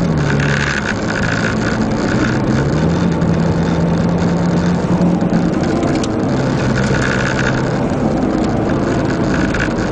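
Engine of a Mitsubishi race car heard from inside the cabin while lapping a circuit, its note dropping and rising in pitch as the driver lifts and gets back on the throttle, over a steady rush of road noise.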